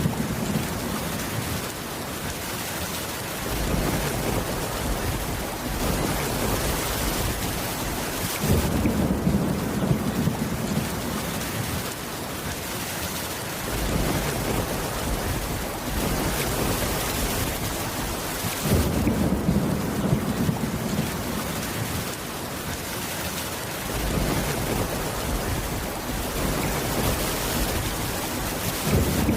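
Steady heavy rain hissing, with a low thunder rumble that swells and fades every few seconds.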